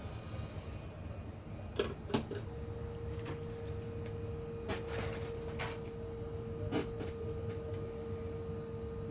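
Several light clicks and taps of small objects being handled, with a steady hum that comes on about two and a half seconds in and keeps going.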